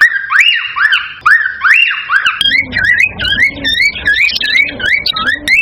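Cockatiels whistling a run of repeated rising-and-falling calls, about two to three a second. A little over two seconds in, it switches to faster, wavier notes with a low rumble underneath.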